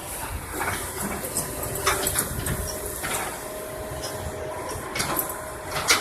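A heavy vehicle engine running steadily, with several sharp metallic knocks and clanks.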